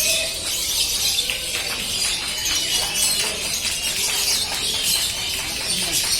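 Many caged songbirds singing at once in a competition: a dense, continuous chorus of high chirps and trills.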